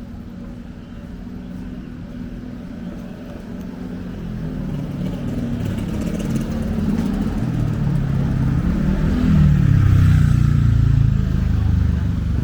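Street traffic: a motor vehicle's engine draws near and grows steadily louder, with its pitch rising and falling, and is loudest about ten seconds in.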